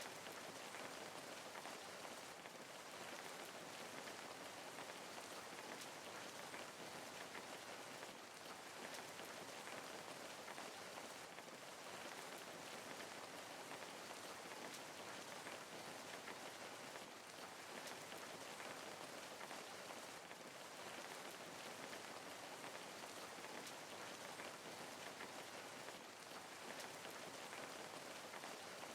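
Steady rain falling, a soft, even patter of raindrops on a surface.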